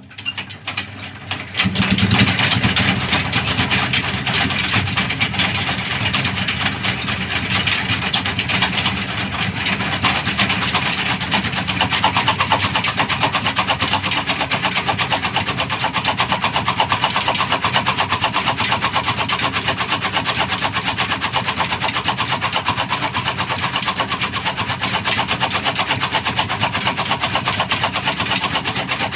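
Single-cylinder Petter-type stationary diesel engine that picks up sharply about two seconds in and then runs steadily with a rapid, even beat.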